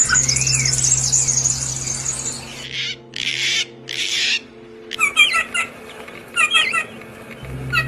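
Songbirds calling: a rapid high-pitched twittering trill, then two short harsh rasping bursts, then repeated quick groups of chirps, heard twice in the last three seconds.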